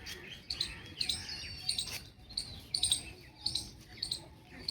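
Small birds chirping: a quick, busy series of short high chirps and little gliding notes, several calls a second.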